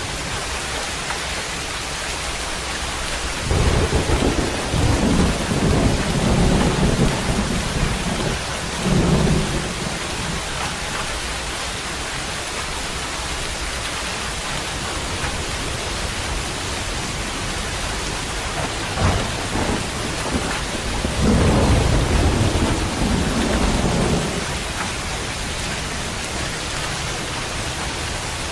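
Steady rain with thunder rumbling twice: a long roll starting about four seconds in and lasting some six seconds, and a shorter roll a little past the twenty-second mark.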